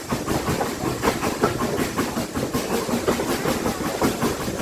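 Passenger train on the move, heard from on board: wheels clattering steadily over the track, with a constant rush of running noise.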